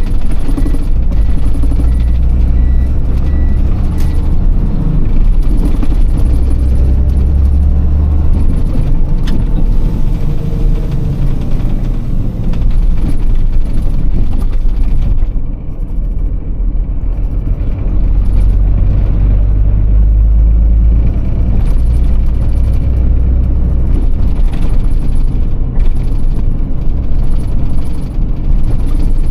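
Iveco truck's six-cylinder Tector diesel engine running under way in city driving. Its low rumble is heavier for the first several seconds and again past halfway, with a brief drop in level around the middle.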